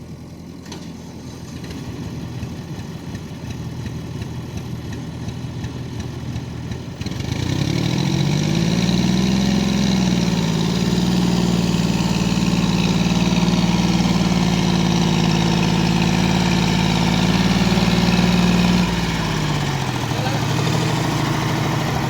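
Diesel engine idling, then revving up about seven seconds in and held at high revs for about ten seconds before dropping back near the end.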